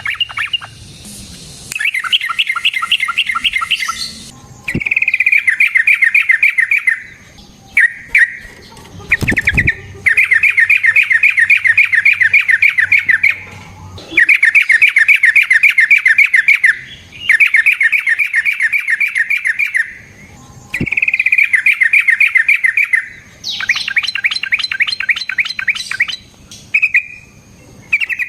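Yellow-vented bulbul (trucukan) singing in repeated long bouts, each a rapid run of chattering notes lasting a couple of seconds, with short pauses between bouts.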